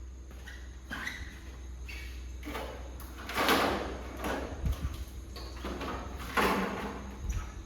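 Two scraping, sliding noises a few seconds apart, like parts being slid or pushed into place, over a steady low hum.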